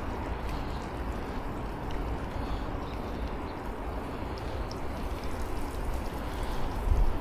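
Steady rushing hiss of a bicycle ride on a wet road, with wind buffeting the action camera's microphone in low, uneven gusts.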